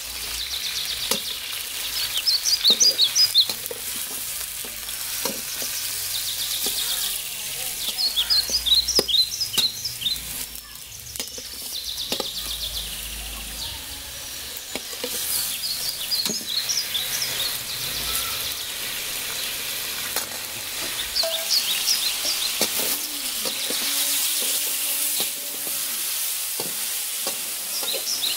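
Chicken pieces sizzling in hot oil in a steel wok, stirred and turned with a metal spatula that scrapes and clinks against the pan. Short bursts of high chirping come and go several times.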